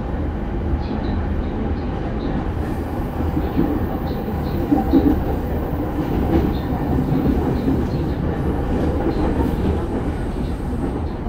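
JR E231 series 1000 electric commuter train running at speed, heard inside the passenger car: a steady rumble of wheels on rail and bogie noise, swelling a little in the middle, with faint ticking over the top.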